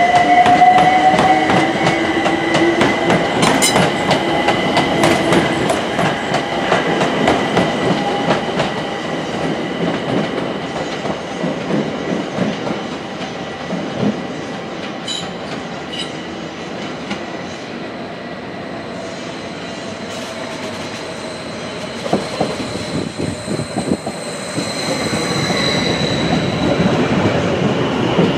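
Electric passenger trains running through a station: wheels clattering over rail joints and points, with a steady electric whine over it. Near the end a train draws close alongside and the noise grows louder, with a higher whine rising.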